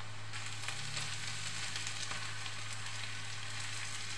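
Beef chunks, onion and carrot strips frying in oil in a heavy pot, a steady sizzle.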